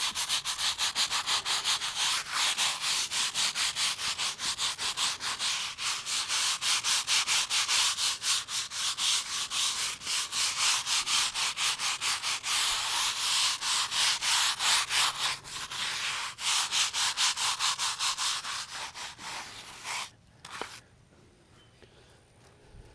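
Stiff-bristled brush scrubbing the etched lettering of a headstone in quick, rhythmic back-and-forth strokes, about four a second. The scrubbing stops about three seconds before the end.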